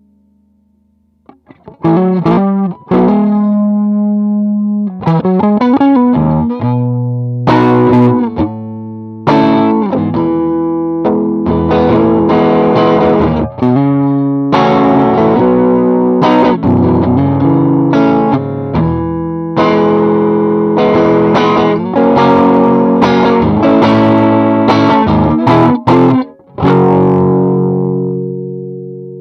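Electric guitar played through a 68 Pedals Inca Kola overdrive pedal, a Zendrive clone, with a driven tone. After a short pause it plays a run of chords and single notes, then lets a last chord ring out and fade near the end.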